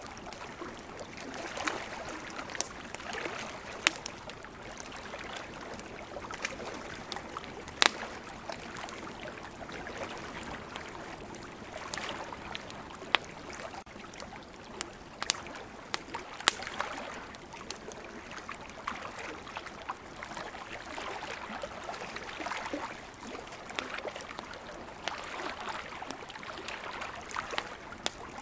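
Wood campfire crackling, with frequent sharp pops and snaps over a steady rushing hiss that swells and eases like surf washing in the background.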